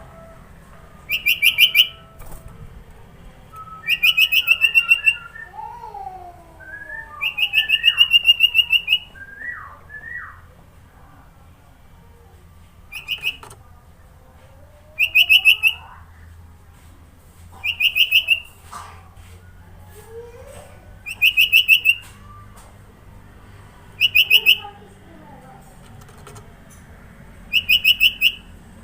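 Sooty-headed bulbul (kutilang) singing: a loud, rapid trill of about a second, repeated nine times at intervals of about three seconds, with fainter sliding whistled notes in between.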